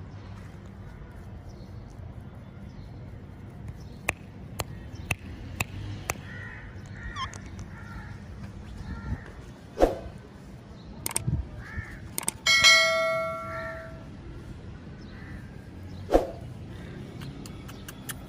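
Pet green ringneck parrot at play: a run of sharp taps and clicks, soft chirps, and two short loud squawks. About twelve seconds in, one bright ringing ding dies away over a second or so, the loudest sound here.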